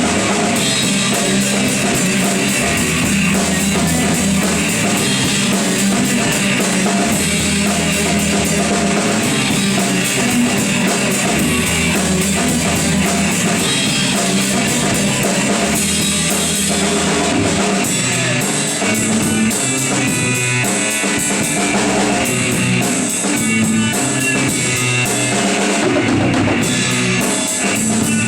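Instrumental break of a rock song: drum kit, guitar and bass playing steadily, with no singing.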